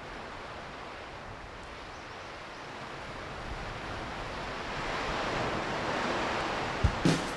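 Rush of ocean surf, a steady wash of noise that swells louder over several seconds. Near the end a music track comes in with a thumping beat.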